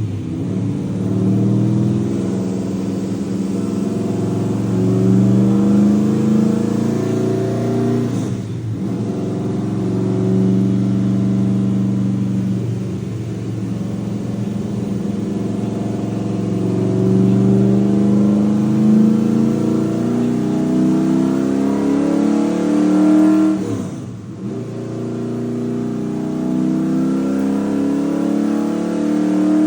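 V8 engine running under load, its pitch climbing slowly and then falling away sharply twice, as at a lift-off or gear change.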